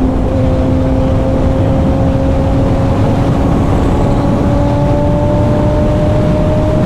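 Kawasaki ZX-6R inline-four sport bike engine running steadily at highway speed, its pitch creeping slowly upward as it gently gains revs, under a heavy rush of wind noise.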